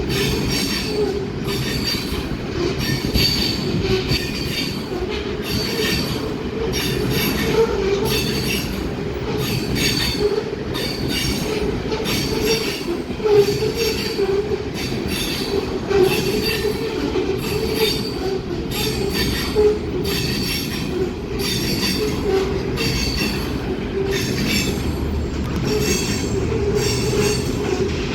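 Freight train cars rolling past, steel wheels squealing against the rails and clacking over rail joints about once a second.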